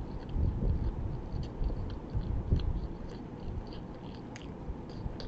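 A person chewing a mouthful of chicken taco pizza close to the microphone, with irregular soft mouth thumps and many small clicks.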